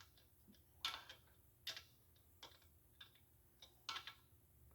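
Faint light taps, about six, spaced irregularly.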